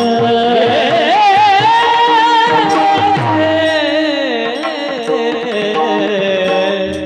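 Devotional bhajan singing in a Marathi kirtan. A solo voice holds a long, wavering ornamented note that rises about a second in and sinks lower from about three and a half seconds, over steady sustained accompaniment tones and repeated low beats.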